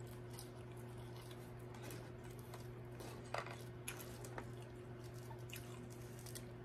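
Soft chewing and wet mouth sounds of a person eating french fries quickly, with a few faint clicks as fries are handled, over a steady low hum.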